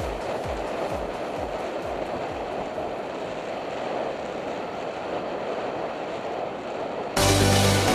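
Steady wind and road rush on the camera's microphone while riding a road bike. Over the first couple of seconds the thumping beat of background music fades out, and music starts again abruptly near the end.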